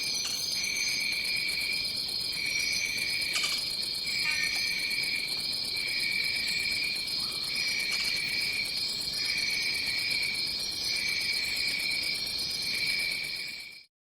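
Rainforest insect chorus: a steady high-pitched drone, with a lower insect call that pulses on and off about once a second, and a few faint bird chirps above. It fades out to silence near the end.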